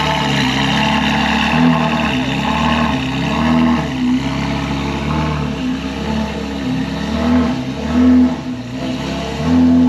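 Ferrari with a full exhaust idling while warming up, with several short throttle blips that briefly raise the pitch; the last two, near the end, are the loudest.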